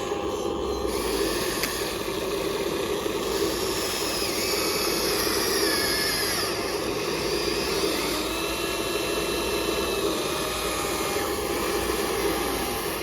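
Small electric motors and gearboxes of radio-controlled toy construction models whirring steadily, with thin high whines that rise and fall as the motors speed up and slow down.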